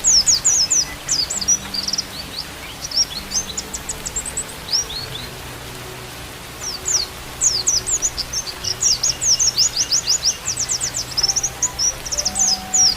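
White-eye (pleci) song: fast runs of high, thin chirps that thin out around the middle and pick up again densely after about seven seconds. Faint held low tones, like soft flute music, sit underneath.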